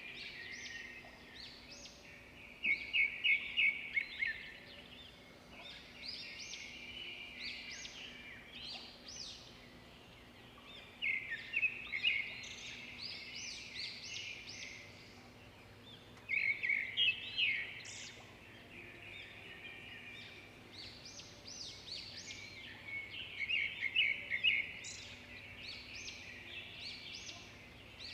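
Songbirds singing and chirping, with one loud phrase of quick repeated notes coming back four times, about every six seconds, over softer background calls.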